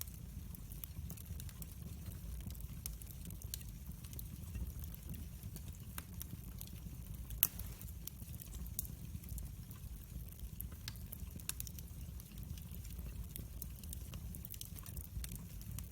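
Fireplace fire crackling steadily over a low rumble, with many small scattered pops and one louder pop near the middle.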